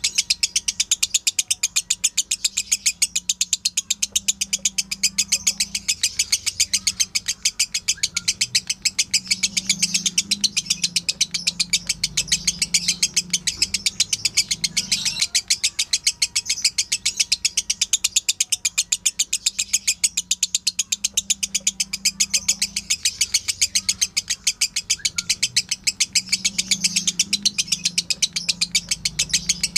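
Lovebird ngekek: a long, unbroken train of rapid, evenly spaced high chirps, the sustained chattering call played as a tutoring recording for other lovebirds to copy.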